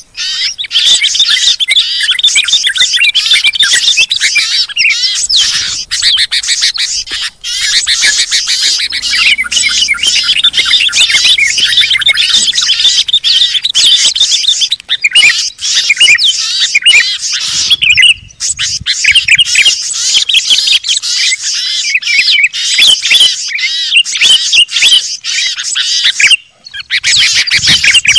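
A dense chorus of many small songbirds chirping and chattering at once, a mixed-species bird-lure recording used to draw wild birds down. The fast, high chirps overlap without pause, with brief dips about 7, 18 and 26 seconds in.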